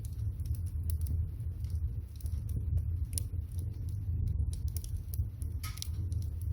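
Wood fire crackling and popping under a pot of water heating to the boil, with irregular sharp snaps over a steady low rumble.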